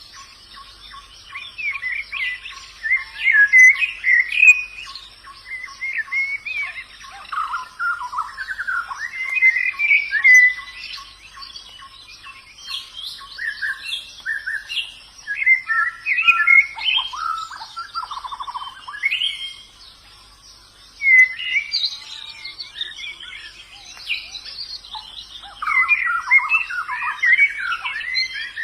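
White-eyes (pleci) singing in the wild: bursts of rapid, high, twittering chirps and warbles from more than one bird, with short pauses between phrases. A faint even ticking runs underneath for the first several seconds.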